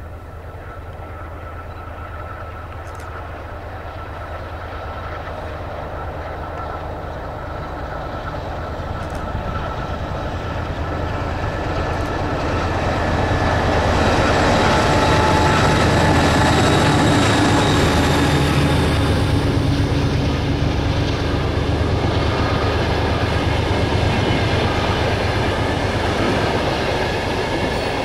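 Diesel locomotive hauling a long train of passenger coaches, approaching and passing close by: the engine's drone grows steadily louder to a peak about halfway through, then the coaches roll past with their wheels running on the rails.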